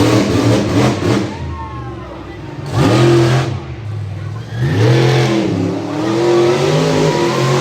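Monster truck engine revving hard in repeated bursts, its pitch rising and falling with each rev, then holding a steadier, lower run.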